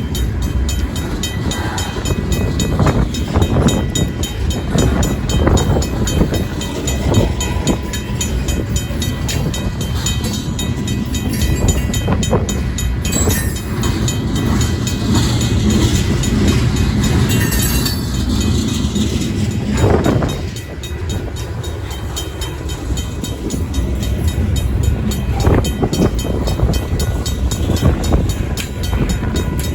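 Union Pacific local train rolling through a grade crossing, its wheels rumbling and knocking over the rails. The crossing's RACO mechanical bell rings continuously with fast, evenly spaced strokes.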